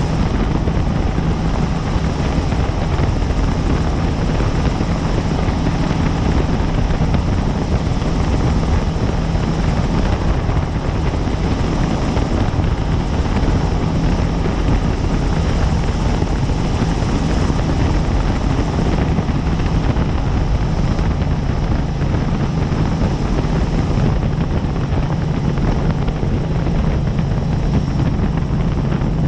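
Helicopter in flight, heard from on board: steady, loud rotor and engine noise with a constant low hum that does not change.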